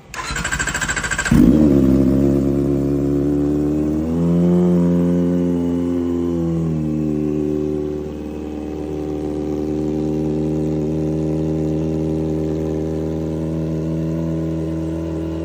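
Kawasaki motorcycle cold start: the electric starter cranks for about a second and a half before the engine catches. It rises in revs about four seconds in, drops back after about three seconds, and settles to a steady idle.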